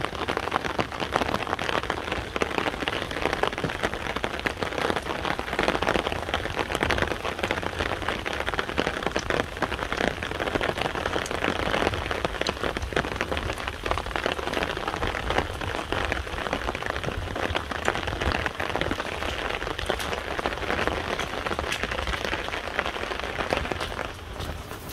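Steady rain, a dense crackle of drops striking close by, easing a little near the end.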